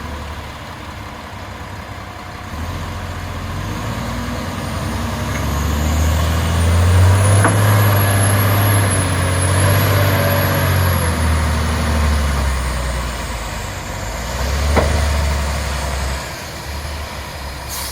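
Heavy diesel truck engine running with a steady low hum, getting louder toward the middle and easing off near the end, with a faint high whine over it and two sharp clicks.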